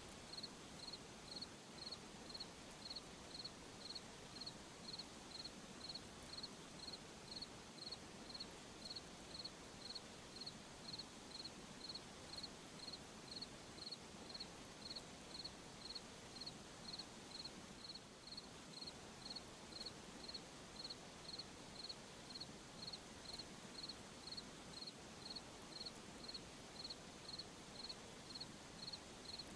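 Cricket chirping in an even rhythm, a short high chirp repeated a little under twice a second, over a faint hiss of night air.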